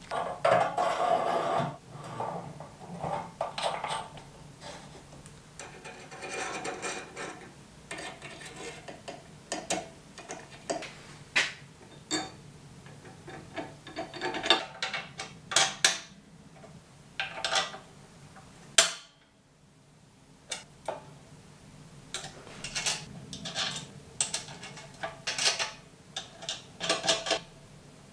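Hand work on metal parts: irregular scraping and rubbing with light metallic clinks and taps, and one sharp knock a little before the two-thirds mark.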